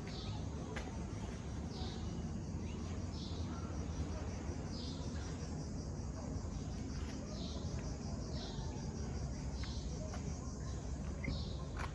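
A bird's short high call, repeated every second or two, over a steady low outdoor rumble.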